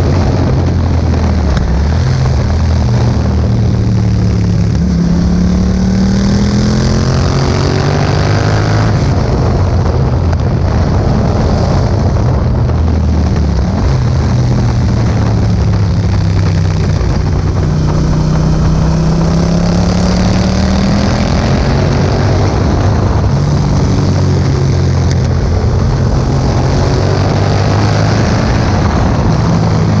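2018 Yamaha MT-07's parallel-twin engine running through an Akrapovic exhaust while riding, the revs dropping and climbing again twice. Heavy wind noise on the microphone.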